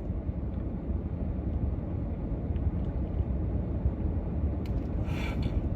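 Steady low rumble of a car heard from inside the cabin, with a brief hiss about five seconds in.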